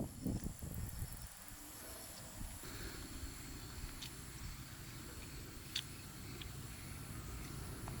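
Steady low rush of a river in flood, with a few sharp clicks about four and six seconds in.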